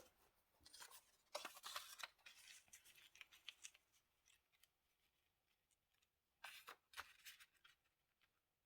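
Scissors cutting paper, quiet snips in two short runs: one about a second in and another near the end.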